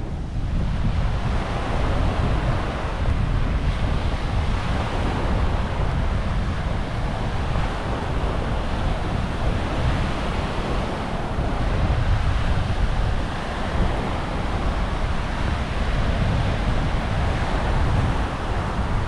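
Small waves washing onto a sandy beach, a steady surf wash, with wind buffeting the microphone as a low rumble.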